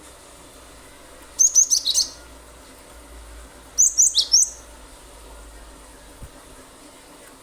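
Cinereous tit (glatik batu) singing: two short bursts of rapid, sharp, high notes, each about half a second long, about two and a half seconds apart.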